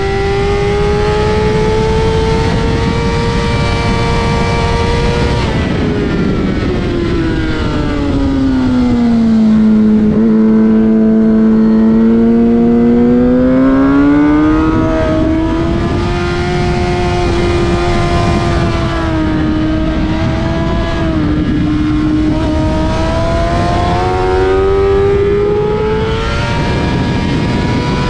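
Suzuki GSX-R sport bike's inline-four engine heard on board at track speed, over steady wind rush. The revs run high, fall steeply for a corner, hold low, then climb again as the bike accelerates out.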